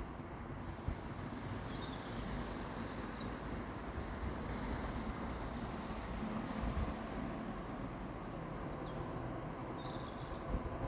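Outdoor countryside ambience: a steady rushing noise with faint, short high chirps of birds or insects, and wind buffeting the microphone near the end.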